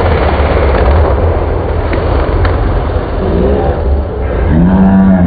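Dirt bike engine revving over a rumbling crowd: the engine's pitch climbs about three seconds in and then holds a steady high rev near the end.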